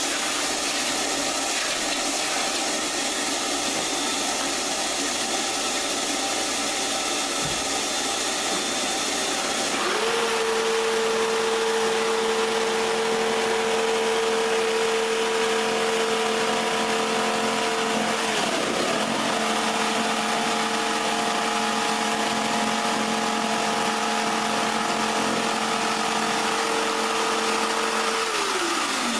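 Workshop power tool running with a steady rushing noise. About ten seconds in, a steady hum joins it, dips briefly about halfway through, and drops away in pitch near the end.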